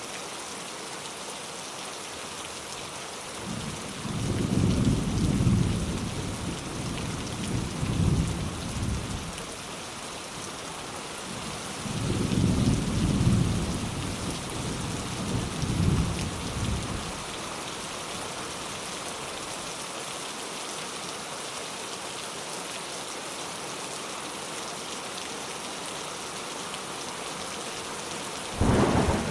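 Steady rain with thunder. Two long, low rumbles of thunder, the first about four seconds in and the second about twelve seconds in, and a sudden thunderclap near the end.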